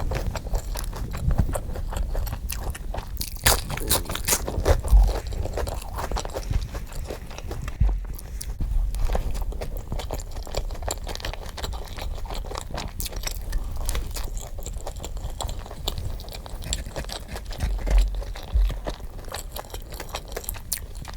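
Close-miked eating sounds sped up: rapid crunching and chewing of food, with dense crackles and frequent louder bites.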